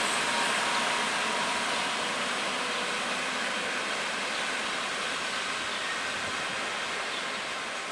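A passenger train's coaches rolling away on the rails: a steady hiss and rumble of wheels on track that slowly fades as the train recedes.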